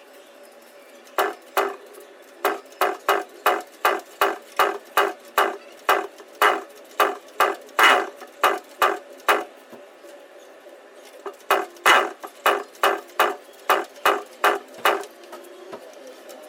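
Yamaha RX100 two-stroke being started after standing for six months, heard as a rapid series of sharp mechanical clacks, about two or three a second, in two runs with a pause between. The engine does not catch and run.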